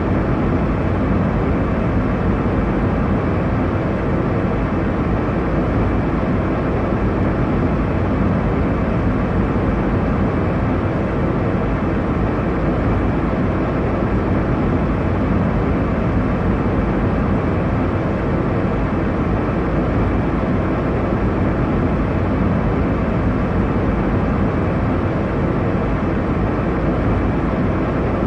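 Airliner cabin noise in flight: a steady, deep rushing drone that stays unchanged throughout.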